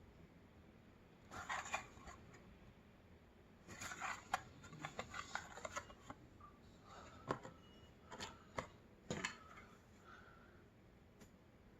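Close-up eating sounds of oysters with crackers: crisp cracker crunches and wet mouth noises in three short spells of chewing.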